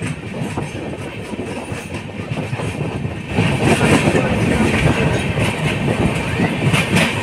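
Jan Shatabdi Express coaches running at speed, heard from on board: steady rumble with wheels clattering over the rail joints. The noise grows louder and harsher about three seconds in.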